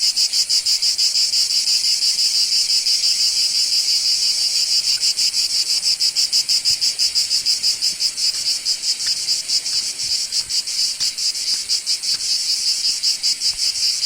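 Loud insect chorus, a dense high buzzing that pulses evenly at about seven beats a second and holds steady throughout.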